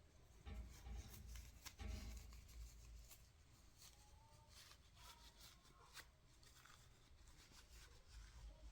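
Near silence in a small room, with faint scattered clicks and rustles.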